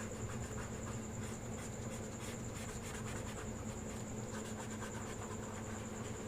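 Coloring strokes on paper, faint irregular scratching, over a steady low hum and a constant high-pitched whine.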